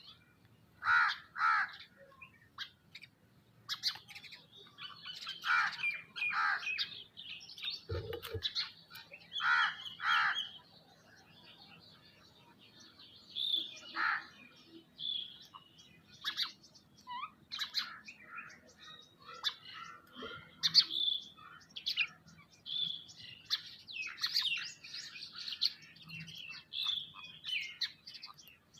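Several birds calling at once: harsh calls, mostly in pairs, during the first ten seconds, then busy higher-pitched chirping for the rest. A single low thump comes about eight seconds in.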